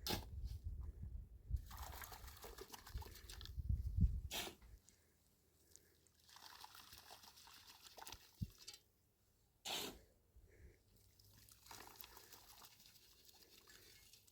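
Liquid being poured or trickling in three short spells of about two seconds each, with a few sharp knocks between them.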